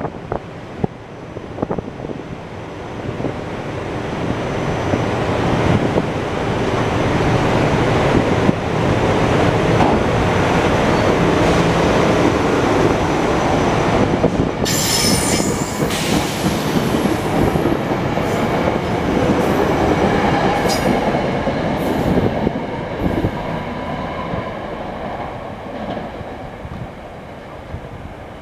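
SEPTA Silverliner IV electric multiple-unit train, five cars, pulling away and running past, its wheel and rail noise building to a peak midway and then fading as it leaves. There is a brief burst of high-pitched noise about halfway through, and scattered clicks from the wheels over the rails.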